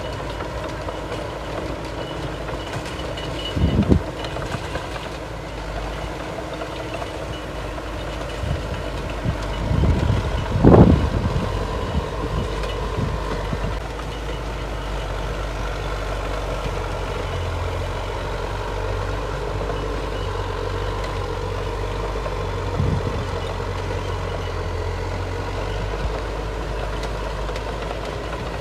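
Heavy diesel earthmoving machinery running steadily, a bulldozer and dump truck at work, with a reversing beeper that stops about five seconds in. A few heavy thuds stand out, one about four seconds in and a louder cluster about ten to eleven seconds in.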